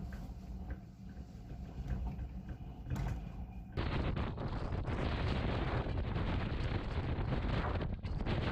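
Storm wind buffeting the microphone: a low rumble at first, then a sudden loud rush of wind noise starting a little before halfway through that keeps on.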